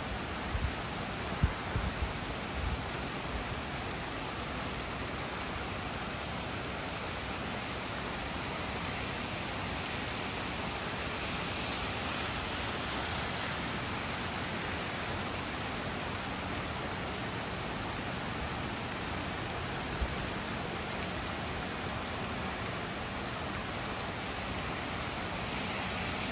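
Heavy rain falling steadily on a street and tree leaves, an even hiss throughout. A few short, dull low thumps come in the first three seconds and one more about twenty seconds in.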